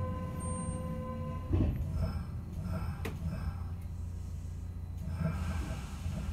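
Interior of a Kintetsu 5800-series commuter train creeping to a stop at a station platform: a low rumble, with a steady tone that cuts off about a second and a half in at a short thump, then a few faint clicks.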